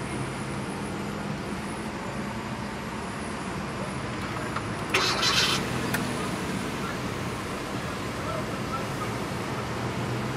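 Hyundai Veloster's 1.6-litre four-cylinder engine being started: a brief, loud crank about five seconds in, against a steady low hum.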